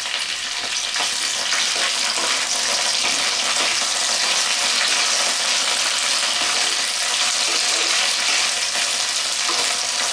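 Chopped okra sizzling steadily in hot mustard oil in a kadai, stirred with a wooden spatula.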